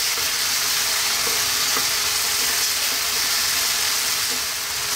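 Mixed vegetables sautéing in hot oil in a nonstick wok, giving a steady frying sizzle. A wooden spatula stirs them, with a few light scrapes.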